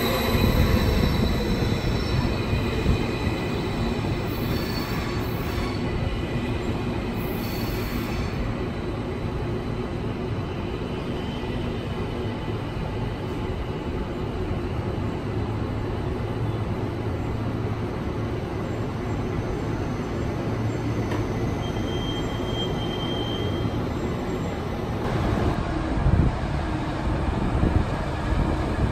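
SBB RABe 511 double-deck electric train moving along the platform, with a steady rumble of wheels and running gear. About 25 seconds in it gets louder as the diesel engine of a DB class 612 railcar pulling in alongside joins.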